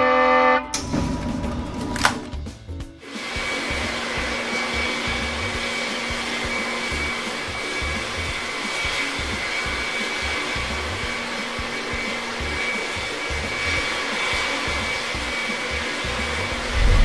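Jet airliner engine sound effect for a toy plane flying: a steady rushing noise with a faint high whine, settling in about three seconds in after a short tone and a whoosh.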